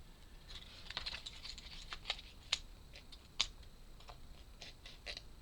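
Wooden 3D-puzzle pieces clicking and tapping as a part is forced into its slots by hand. A scatter of small, sharp clicks, the sharpest about two and a half and three and a half seconds in.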